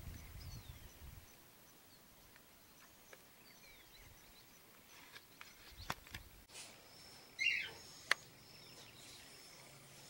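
Faint outdoor ambience with scattered faint bird chirps, a few sharp clicks around six seconds in, and a louder short downward-gliding bird call about seven and a half seconds in.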